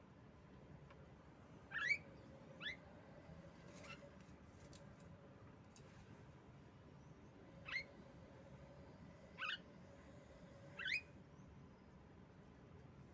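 Female Javan myna giving short squeaky calls, each a quick upward sweep in pitch, about five of them spaced a second or more apart. Faint steady hum underneath.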